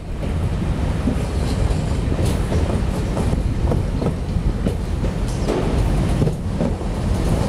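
Passenger train running along the track: a steady rumble of wheels on rail, with a sharp click every second or so as the wheels pass over rail joints.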